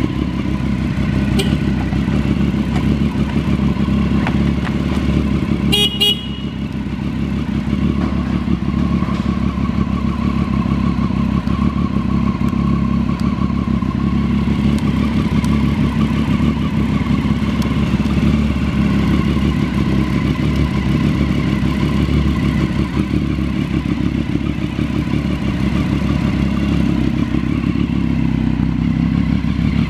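2016 Triumph Street Triple R's 675 cc inline three-cylinder engine idling steadily, held at an even speed with no big revs. A sharp click about six seconds in, with a brief dip in engine level.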